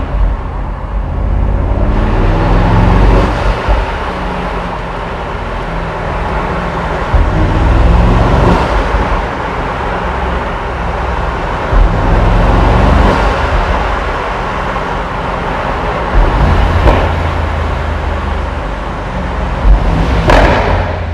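Mercedes-AMG SL 63's twin-turbo V8 running under way, its engine note rising and falling several times as it accelerates and eases off. There are a few short sharp cracks, the loudest near the end.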